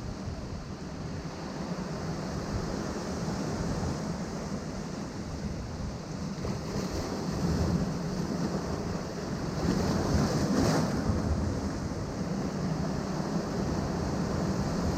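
Sea waves washing against a rocky shore in a steady rush, with a bigger wave breaking about ten seconds in.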